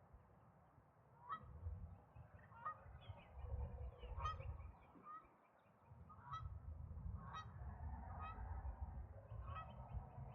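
Geese honking in short single calls, about eight honks at uneven intervals of a second or two, heard faintly over a low rumble.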